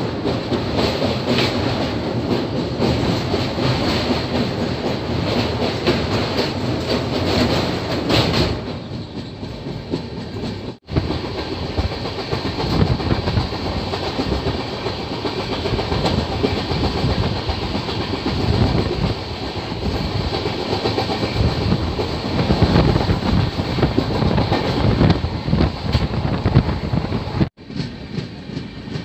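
Passenger train running at speed: a steady rumble of wheels on rail with clickety-clack from the rail joints. It is louder and brighter for the first eight seconds or so, while the train crosses a river bridge, and the sound cuts out abruptly for an instant twice, near 11 s and again near the end.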